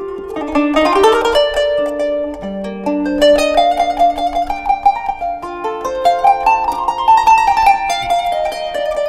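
A kanun, the Turkish plucked zither, playing a melody in plucked notes, with quick runs of notes in the middle and near the end.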